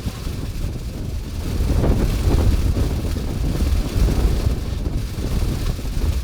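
Wind buffeting the microphone: a gusty low rumble that swells about two seconds in.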